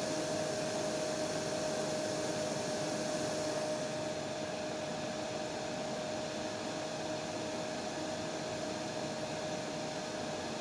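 Hair dryer running steadily: a constant rushing hiss with a steady whine through it. About four seconds in, the sharpest part of the hiss drops away and it goes slightly duller and quieter.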